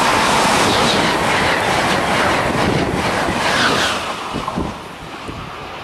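Amtrak Acela Express high-speed trainset passing at speed: a loud rush of air and wheel noise with rail clatter. It drops away about four seconds in as the train clears, leaving a few light clicks.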